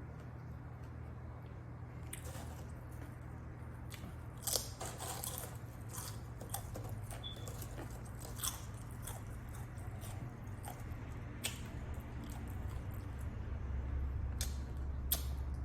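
Close-up chewing and biting of a club sandwich, with scattered wet mouth clicks and smacks. A steady low hum runs underneath.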